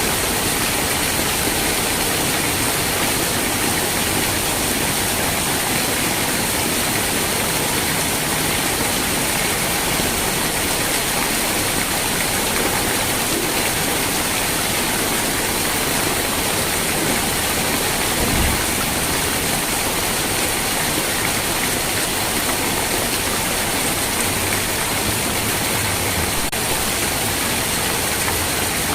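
Steady heavy rain, a dense even hiss, with one brief low thump about two-thirds of the way through.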